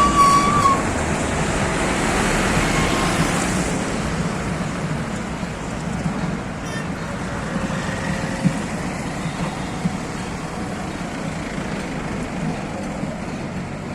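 Steady road traffic and engine noise, with a short horn toot right at the start.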